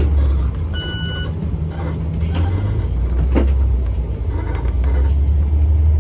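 Low, steady engine rumble, with a short electronic beep of several pitches about a second in.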